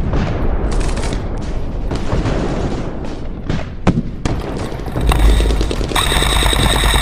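Airsoft guns firing in rapid shots and bursts. About five seconds in comes a louder, sustained full-auto burst, with a steady high whine over it for the last second or so.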